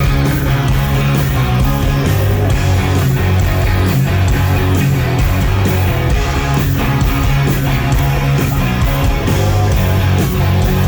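Rock band playing live: loud distorted electric guitars and bass over drums keeping a steady fast beat, with no singing.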